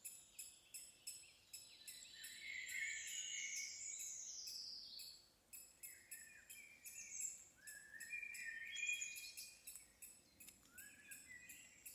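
Several songbirds singing and calling at once, overlapping warbled and sliding phrases, with a fast, even high ticking.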